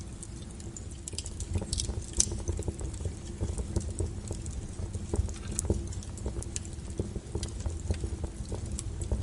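Wood fire burning, with irregular crackles and sharp pops over a low, steady rumble of flame. A loud snap comes about two seconds in.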